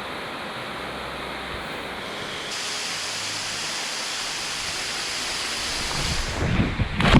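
Steady rushing of a waterfall pouring into a pool. Near the end a low rumbling builds into a sudden loud burst.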